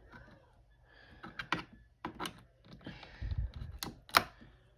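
Keyboard keycaps being pried off with a fork: a handful of sharp plastic clicks and snaps, the loudest near the end, with a dull bump of handling about three seconds in.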